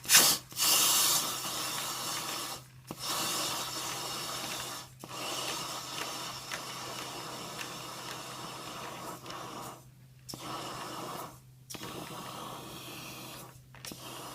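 Dryer-vent cleaning equipment working in a lint-plugged vent: a rough rushing and scraping noise over a steady hum, cut by short pauses about five times.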